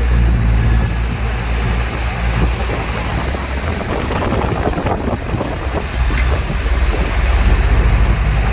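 Heavy diesel engine of earthmoving machinery running with a low drone, easing off through the middle and picking up again near the end. A rougher rattling noise builds around the middle, with a single sharp click about five seconds in.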